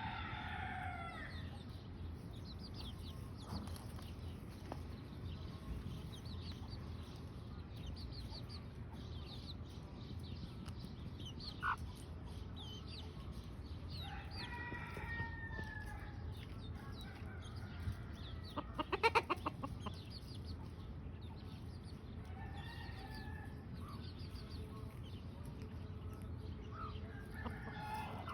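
Chickens: chicks peeping throughout, with longer calls from an adult bird now and then and a quick run of clucks about two-thirds of the way through.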